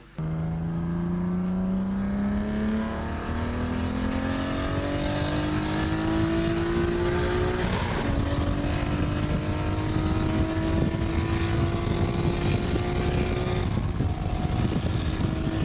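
Car engine under hard acceleration through the gears. The pitch climbs steadily and drops at the upshifts, clearly about 8 seconds in and again near the end, over steady road and wind noise.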